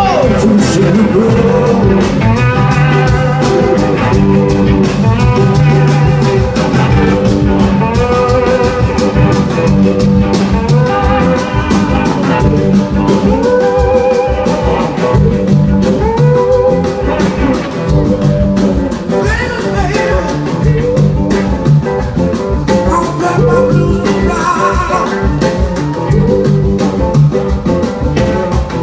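A band playing a blues-rock song with singing and guitar, the phrases repeating over a steady beat.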